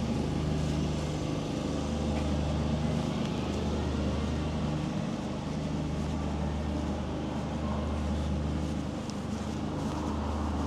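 A steady low engine hum with background street noise.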